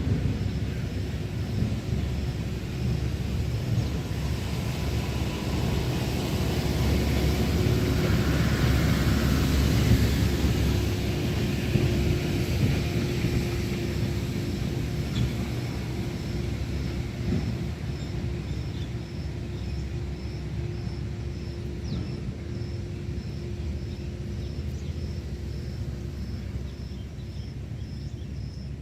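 A low, steady rumble that grows louder to a peak about a third of the way in, then slowly fades, with a faint high chirp repeating at an even pace throughout.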